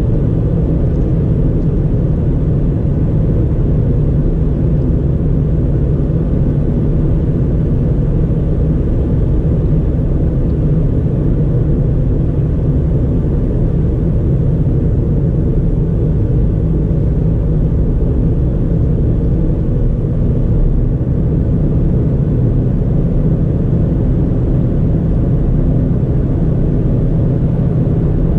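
Ford Fiesta 1.4's four-cylinder engine and tyres running on the road, a steady low rumble with no change in pitch or level.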